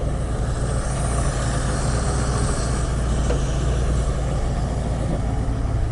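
Ford 302 small-block V8 in a 1980 F100 idling steadily, fed by a freshly fitted remanufactured Motorcraft two-barrel carburettor that still needs adjusting.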